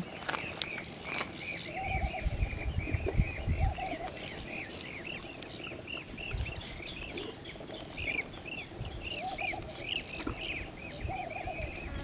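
Birds calling: a steady run of short, high, arched chirps, about three a second, with a few lower calls among them and some low rumble about two to four seconds in.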